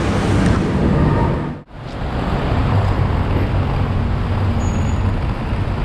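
Steady rumble of a commuter train running, with a low hum under it, broken once by a brief dropout about a second and a half in.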